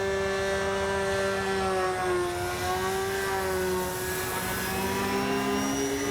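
Electric motor and propeller of a Flex Innovations Mamba 10 G2 RC aerobatic plane in flight, running on a 6S LiPo pack. A steady whine dips slightly in pitch about two seconds in and climbs back as the throttle changes.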